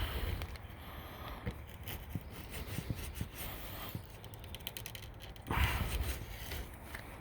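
Rubber screen spline being pressed into a screen door frame's channel with a spline roller over heavy-duty pet screening: scraping and small clicks, with two louder rubbing scrapes, one at the start and one about five and a half seconds in.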